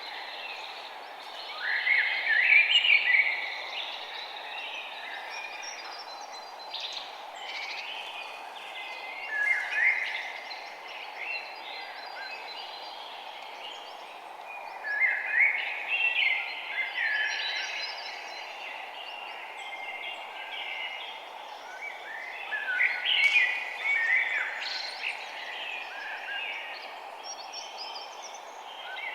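Songbirds chirping and singing in bursts that come every several seconds, over a steady background hiss.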